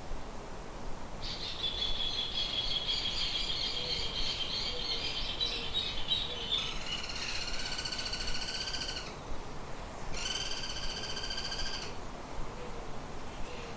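Birds calling: a rapid, high trill for about five seconds, then two harsh, buzzy calls of two to three seconds each with a short gap between them.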